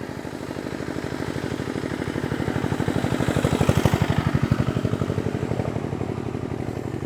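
Motorcycle engine idling with an even, rapid putter, growing louder toward the middle and easing off again.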